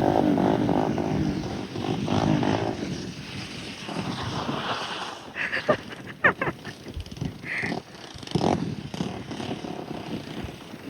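Honda 400EX quad's single-cylinder four-stroke engine revving up and down, loudest in the first three seconds, then running quieter with several sharp clicks and knocks in the second half.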